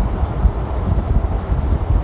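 Passenger train running: a steady low rumble of wheels on the rails, with wind buffeting the microphone.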